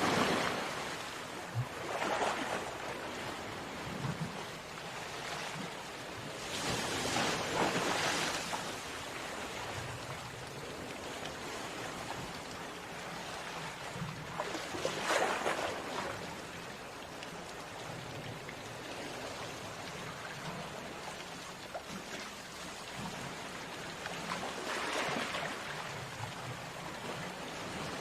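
Sea waves washing onto a beach: a steady hiss of surf, with a louder wave breaking every several seconds, around 2, 7, 15 and 25 seconds in.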